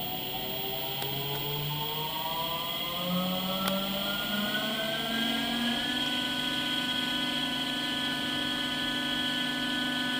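Brushless DC motor whining as it speeds up, its pitch rising smoothly for about six seconds and then holding steady at speed.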